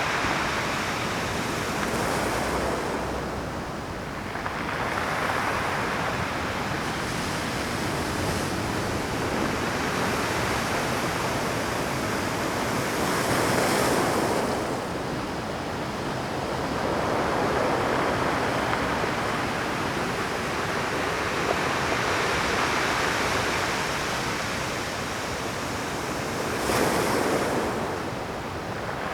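Rough Pacific surf breaking on a rocky shore: a continuous wash of waves with surges every few seconds, the loudest breakers about halfway through and near the end.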